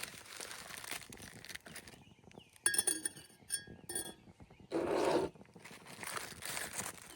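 Ringing clinks of dishware being handled: one sharp clink with a lingering ring, then two lighter ones, followed by a short, louder rustle or scrape among soft ongoing rustling.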